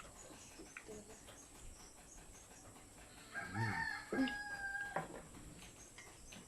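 A rooster crows once, starting about three seconds in: a call of under two seconds that rises, holds a steady pitch and cuts off sharply.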